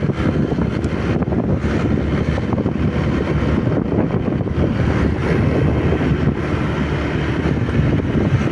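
Motorcycle on the move: steady wind noise on the microphone over the bike's running engine.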